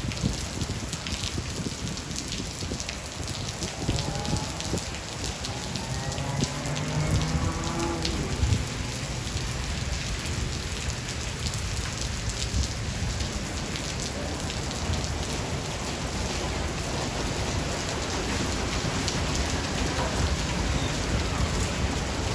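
Steady heavy rain pattering on surfaces, with low rolling thunder rumbling underneath. A faint wavering tone rises and falls about six to eight seconds in.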